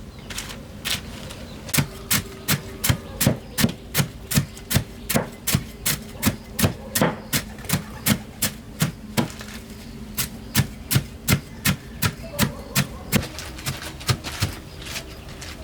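Knife chopping steadily on a cutting board: a long run of sharp, even strokes, about three a second.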